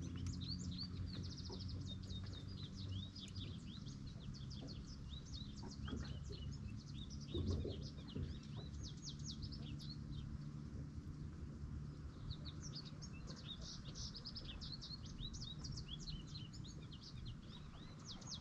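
Many small birds chirping in quick, busy flurries, with a lull in the middle, over a low steady hum and one soft thump about halfway through.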